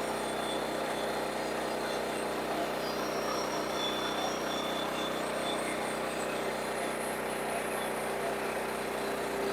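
An engine running steadily at a constant speed, with an even mechanical drone and no change through the stretch.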